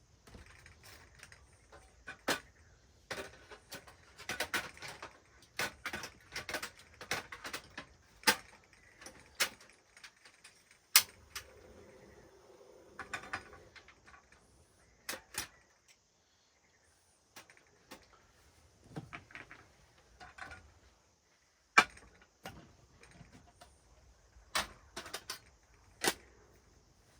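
Camping gear being handled: irregular sharp clicks, clinks and knocks with short quiet gaps, and a brief low hum about halfway through.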